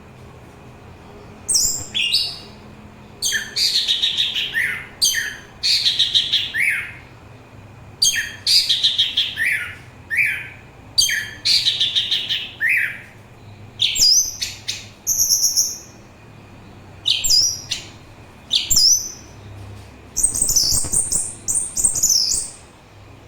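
Orange-headed thrush singing: a run of varied, rapid phrases of high whistles, chatters and falling slurs, each a second or two long, with short pauses between them.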